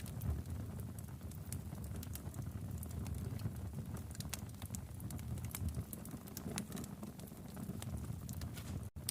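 Wood fire crackling in a fireplace: a steady low rumble of flames with frequent sharp, irregular pops and snaps. The sound drops out for an instant near the end.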